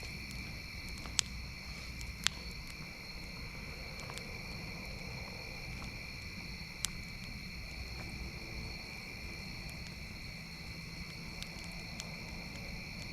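Crickets or similar night insects chirring in a steady drone, with a campfire crackling: a few sharp pops stand out, the loudest about a second in, just after two seconds and near seven seconds.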